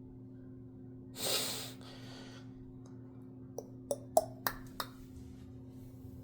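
Washing machine running in its wash cycle with a steady low hum. A loud breath about a second in, then a quick run of five sharp clicks.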